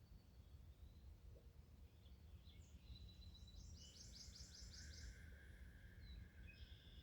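Faint birdsong over a quiet, steady low outdoor rumble. About halfway through, a bird sings a quick run of about seven high, falling notes, and a few thin calls come before and after it.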